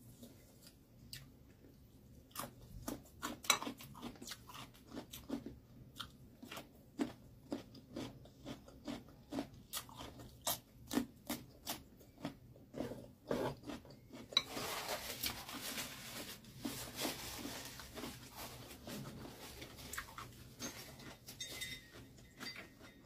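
Close-up chewing of crisp cucumber slices: a run of sharp crunches about two a second, turning into a denser, hissier stretch of chewing about two-thirds of the way in.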